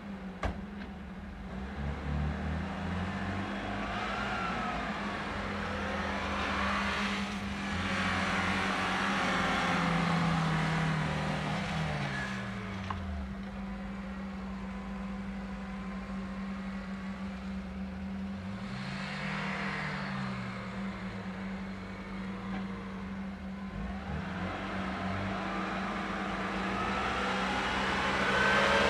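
Off-road vehicle engines, UAZ jeeps and a Lada Niva, revving as they drive through snow. The pitch rises and falls with the throttle over a steady low hum, and it gets louder near the end.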